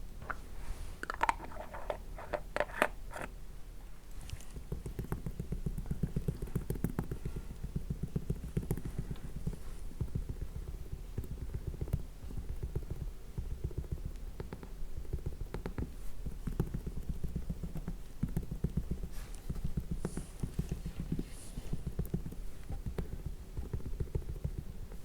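Close-miked fingertips rapidly patting and rubbing skincare product onto a mannequin's face, a soft low patter of many quick taps, after a few sharper clicks in the first seconds.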